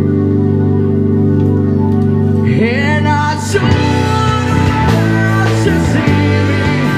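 Live rock band playing amplified: a held chord rings for about two and a half seconds, then a lead guitar slides up in pitch and the band carries on with busier playing.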